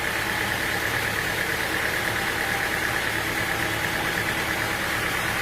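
Sawmill machinery running steadily: an even, engine-like drone with a constant high whine over it, unchanging throughout.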